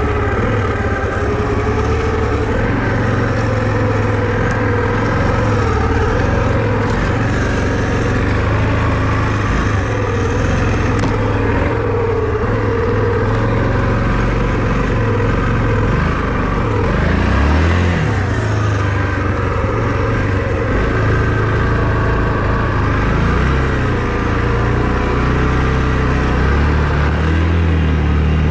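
Vehicle engine running under load, its pitch rising and falling as the throttle changes, with a brief dip and rise about 17 seconds in.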